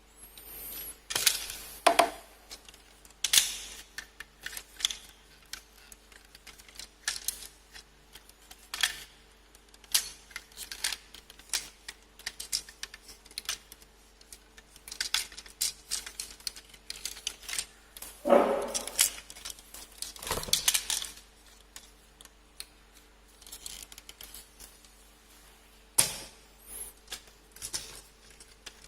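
Hard plastic parts of an action-figure model kit clicking and knocking as they are handled and pressed together: irregular sharp clicks throughout, with louder handling and scraping about a second in and again around eighteen to twenty-one seconds.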